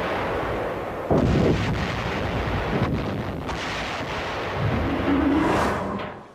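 Heavy blasts with a long rumbling decay, like big guns or explosions: a fresh blast about a second in, with the sound dying away near the end.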